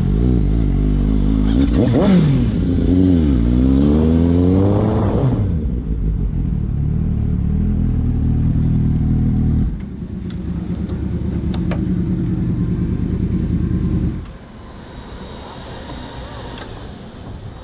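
Motorcycle engines revving, their pitch rising and falling several times in the first five seconds, then running steadily. The engine sound drops away sharply about fourteen seconds in, leaving a quieter background.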